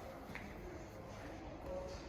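Faint background music mixed with distant, indistinct voices over a low rumble.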